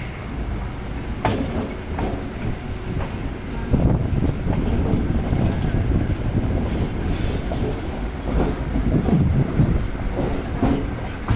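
Chennai MRTS EMU suburban train on the rails: a steady rumble with scattered clicks, growing louder about four seconds in.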